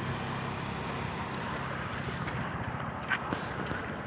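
Steady outdoor background noise with a low hum, such as distant traffic. A few light clicks come about three seconds in.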